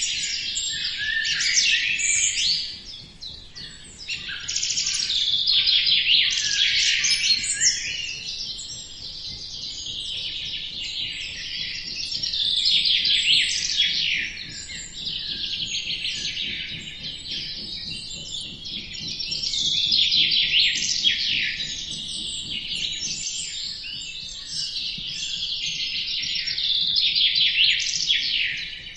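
Small birds chirping and twittering in a dense, continuous chorus of quick high chirps, swelling and fading in loudness every few seconds.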